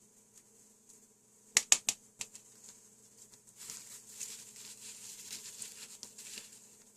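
Four sharp taps close together, then about three seconds of crackling hiss, as of a hot soldering iron tip sizzling on solder and flux.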